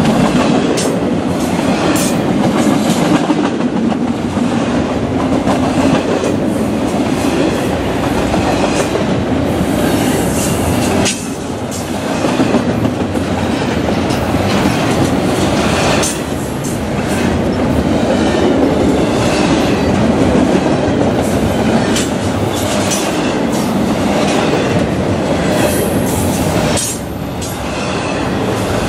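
Double-stack intermodal container cars of a freight train rolling past at speed: a steady roar of wheels on rail with repeated clicks as wheels cross rail joints. The noise dips briefly three times, about 11, 16 and 27 seconds in.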